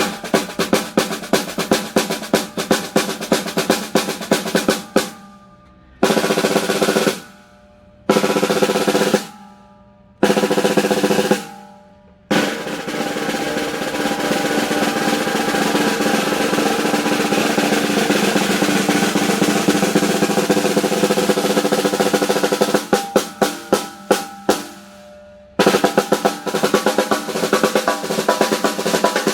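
Mapex Black Panther 14×4.5 snare drum being played: about five seconds of quick strokes, then three single hits left to ring out, then a long roll of about twelve seconds that breaks into separate strokes before stopping, and more strokes near the end.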